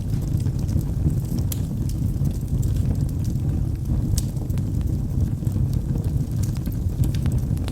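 Wood logs burning in a fireplace, with a steady low rumble of flames under scattered sharp crackles and pops. The sharpest pop comes about four seconds in.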